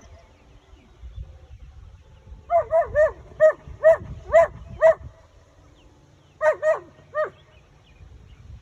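A dog barking in quick runs: about seven sharp barks in two and a half seconds, then three more after a short pause.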